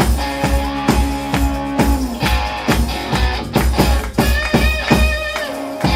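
Live blues band playing an instrumental passage: guitar over a steady drum beat.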